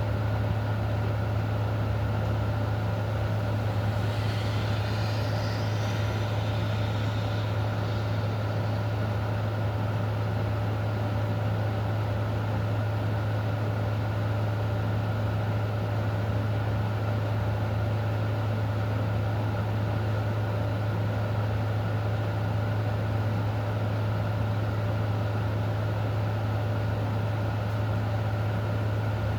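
A steady, unchanging low mechanical hum, with a few faint steady tones over it.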